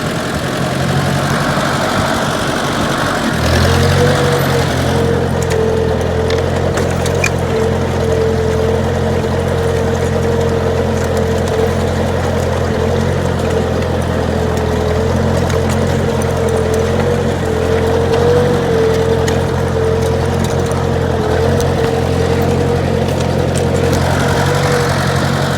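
Ford 860 tractor engine running steadily under load while pulling plows in second gear. The engine note settles about three and a half seconds in, and a steady whine rides over it from about four seconds on.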